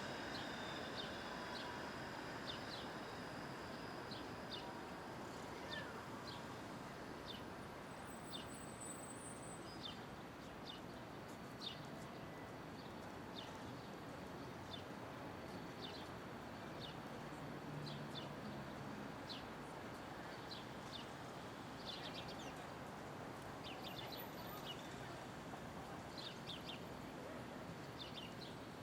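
City street background: a steady hum of traffic, with small birds chirping in short, scattered calls throughout.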